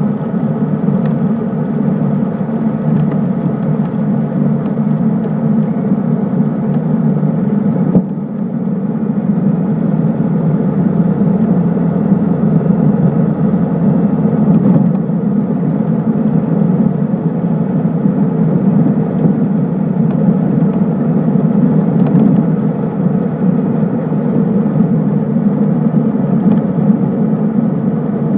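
Cessna 152's four-cylinder Lycoming O-235 engine and propeller running at a steady drone, with a brief dip about eight seconds in.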